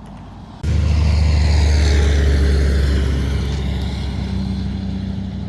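A motor vehicle's sound starts abruptly about half a second in: a loud, steady low engine hum with a higher whine falling slowly in pitch, then fading gradually.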